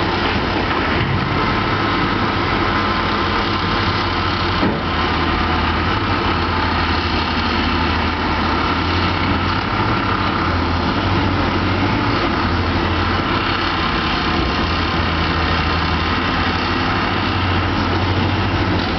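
Heavy diesel mining machinery, a hydraulic shovel and haul trucks, running steadily with a deep even engine drone.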